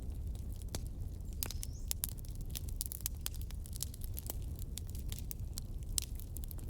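Fireplace fire crackling: irregular sharp pops and snaps over a low steady rumble, with a brief thin rising hiss about a second and a half in.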